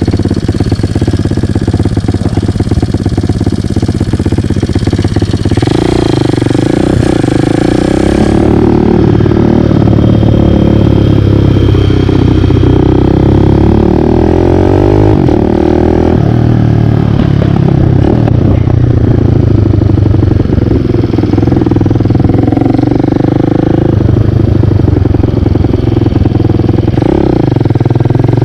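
Kawasaki KLX178 big-bore dirt bike's single-cylinder four-stroke engine running under way, loud and close, its revs rising and falling as the rider accelerates and eases off through the gears.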